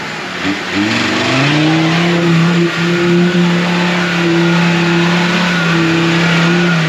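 Off-road competition car's engine revving up about a second in and held high and steady as the car drives through a deep, muddy, water-filled rut. The revs fall away at the very end.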